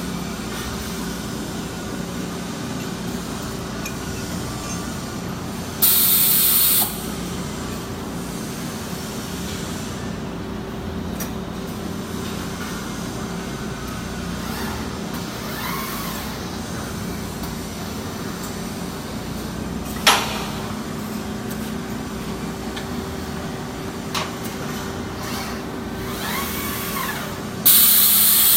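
HCP-42 gang-type CNC lathe and gantry loader running with a steady machine hum. Two loud hissing bursts of about a second each, one about six seconds in and one at the end, and a single sharp clack about two-thirds of the way through.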